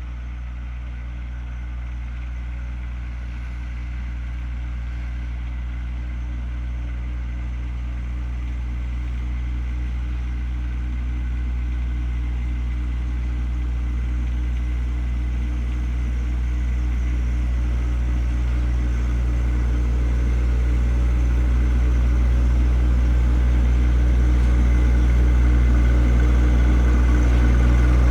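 John Deere 1025R compact tractor's three-cylinder diesel engine running steadily, growing gradually louder over the whole stretch.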